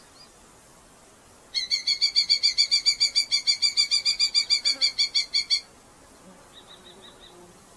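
Red-footed falcon calling: a loud, rapid run of harsh, high kew notes, about nine or ten a second, lasting some four seconds. A few faint short notes follow near the end.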